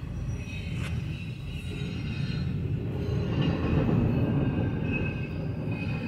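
CSX double-stack intermodal container train rolling past: a steady low rumble and clatter of wagon wheels on the rails, growing a little louder around the middle.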